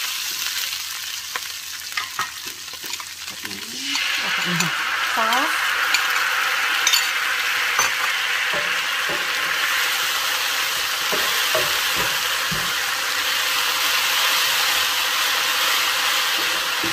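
Minced garlic and chili frying in oil in a nonstick pan, stirred and scraped with a wooden spatula. About four seconds in, the sizzle jumps louder as a soy and oyster sauce mixture hits the hot pan and bubbles, and the stirring goes on through it.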